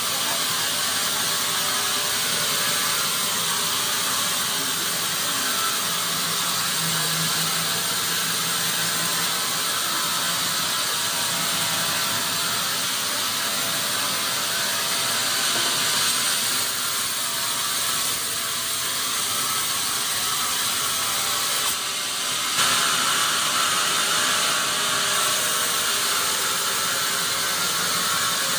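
Sawmill machinery running steadily as acacia wood is sawn, a dense rattling hiss that dips briefly and then comes back a little louder about 22 seconds in.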